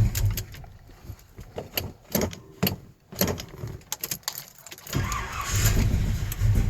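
Car engine, cold after sixteen days of sitting, dies away just after the start, leaving about four seconds of scattered clicks and knocks; about five seconds in it is started again and runs with an uneven low pulsing.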